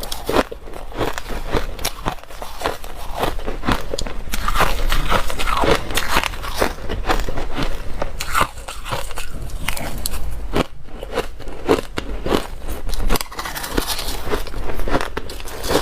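Close-up crunching of dry, hard ice being bitten and chewed, a continuous run of rapid crackling crunches.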